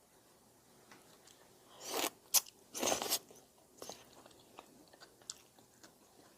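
A person eating udon noodles with rice cake close to the microphone. There are two loud eating bursts about a second apart, around two and three seconds in, with a sharp click between them, followed by quieter chewing and small mouth clicks.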